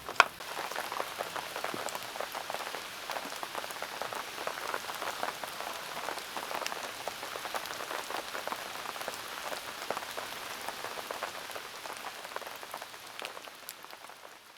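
Heavy rain pattering, many individual drops striking a surface, with one sharp tap just at the start; it fades out near the end.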